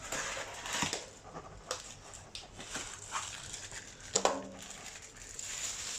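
Packaging rustling and crinkling, with scattered small knocks and clicks, as the coffee machine's accessories are taken out of the box and handled.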